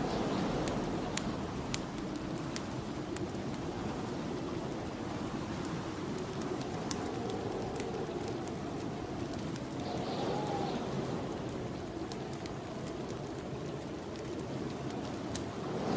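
Snowstorm wind blowing steadily, with a gust that swells and rises in pitch about ten seconds in, under the sharp crackles and pops of a wood fire burning in a fireplace.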